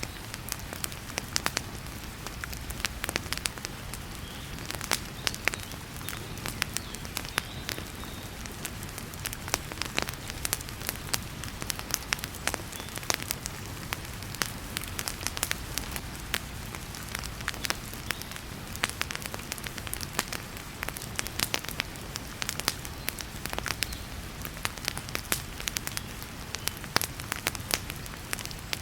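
Wood fire crackling in a fireplace with frequent sharp pops, over a steady hiss of heavy rain.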